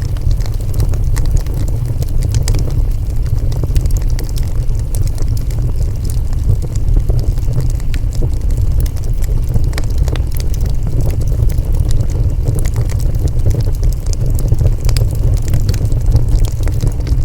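Wood fire burning with a steady low roar, dotted with frequent sharp crackles and pops of the burning wood.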